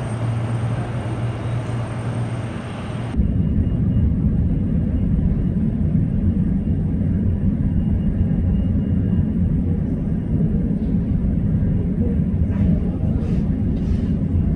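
Jet airliner engines rumbling steadily. About three seconds in the sound changes abruptly to a deeper, bass-heavy rumble with little treble.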